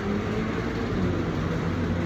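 Motor vehicle engine running, a steady low hum whose pitch drifts slowly, with road noise underneath.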